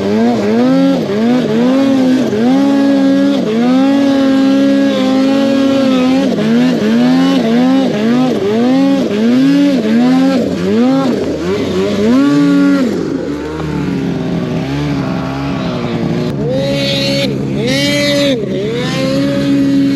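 Snowmobile engine revving up and down in quick repeated bursts as the throttle is worked, about twice a second. Past the middle the revs drop lower and steadier, and near the end there are a few short hissing bursts.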